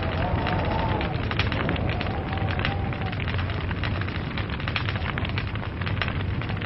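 Log fire burning with a continuous fast crackle of small pops and snaps over a steady low rumble.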